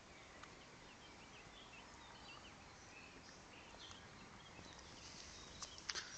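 Faint birdsong: scattered short chirps over quiet outdoor background hiss, with a few sharp clicks near the end.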